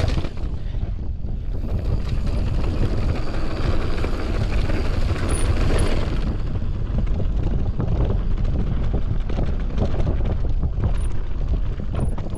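Mountain bike descending a dirt trail: wind rushing over the microphone with the tyres rolling and many small knocks and rattles from the bike over rough ground.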